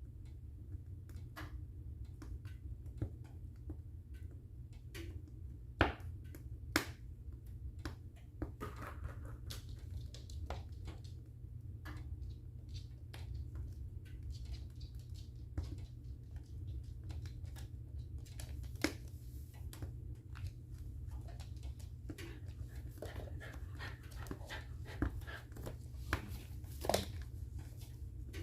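Wood fire burning in a fireplace, crackling with irregular small snaps and a few louder pops over a steady low rumble.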